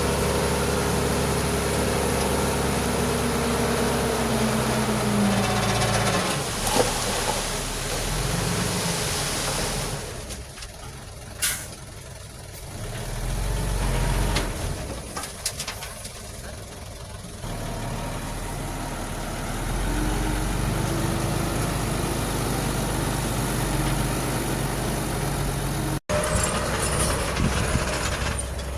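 Heavy diesel engines of a dump truck and bulldozer running, a steady engine note that falls away about six seconds in and then rises and falls with the work. About halfway through there is one short, sharp hiss.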